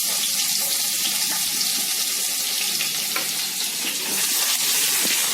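Chopped garlic sizzling in hot oil in a pan: a steady frying hiss with a few small crackles.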